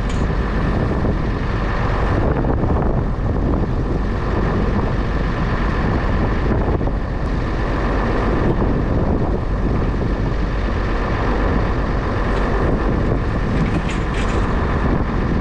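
Farm tractor engine running steadily under way.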